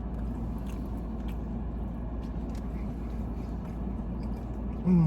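Someone chewing a burger, with faint mouth clicks, over a steady low car-cabin hum.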